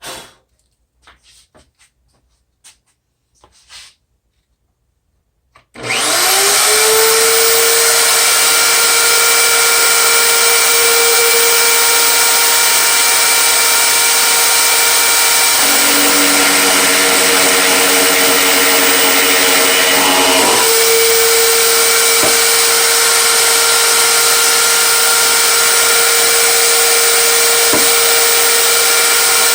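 An electric power tool motor starts about six seconds in with a short rising whine, then runs loud and steady. A lower hum joins for about five seconds in the middle, then drops out.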